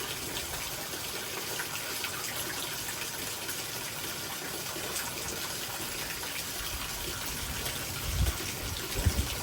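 Heavy rain pouring down in a steady hiss during a severe thunderstorm, with two brief low thumps near the end.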